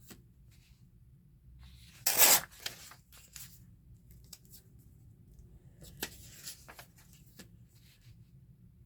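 A book page torn briefly about two seconds in, with faint paper rustles and light taps of paper handling around it.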